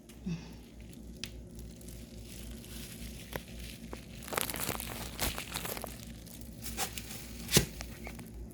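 Crinkling and rustling handling noise, with scattered clicks and one sharp knock near the end.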